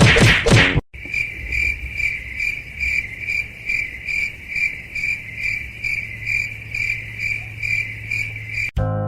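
A cricket chirping steadily, a little over two chirps a second, over a low steady hum. It starts suddenly after a short loud burst of noise about a second in, and cuts off just before the end.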